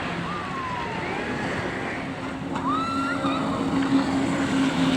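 Jet ski engine running with a steady hum that grows louder from about halfway through, over the wash of surf.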